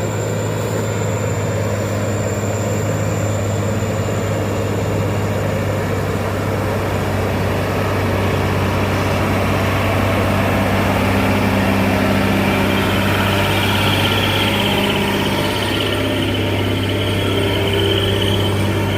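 Heavy diesel engine running steadily with a deep, even hum; a higher steady whine joins in during the second half.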